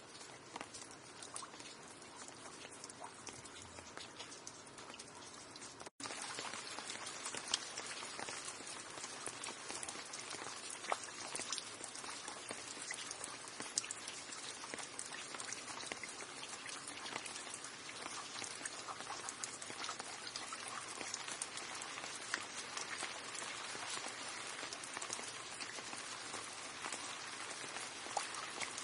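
Steady rain, with individual drops pattering and ticking over a dense hiss. About six seconds in it cuts out for a split second, then returns louder and denser.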